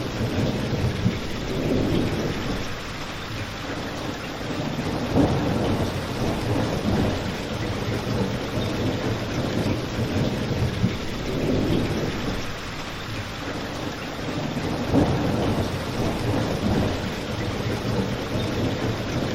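Steady rain with a low rumble that swells and fades every few seconds, and a few sharp pops from a crackling fireplace.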